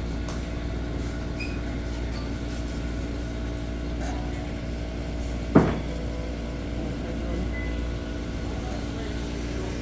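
A steady low mechanical hum with a few even tones running through it, and a single sharp knock about five and a half seconds in.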